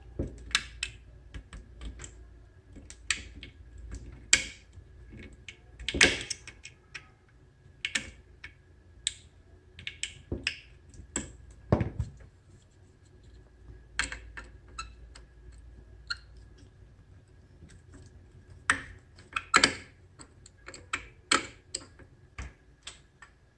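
Irregular small clicks and metallic knocks of a screwdriver working a stubborn small screw out of a Marlin 336 rifle, with a few louder knocks among them.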